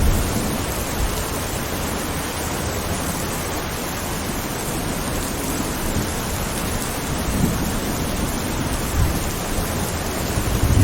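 Steady rain, with low thunder rumbling at the start that dies away and faint rumbles returning near the end.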